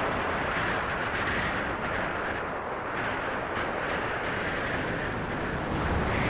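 High wind blowing as a steady rushing noise that swells and eases only slightly.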